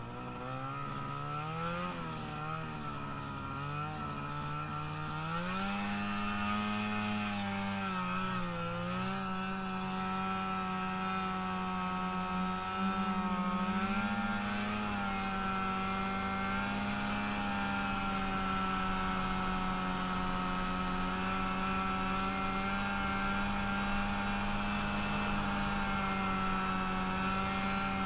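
Small vehicle engine running under way on its first ride after a rebuild: its revs rise and fall several times over the first nine seconds or so, then it holds a steady high engine note.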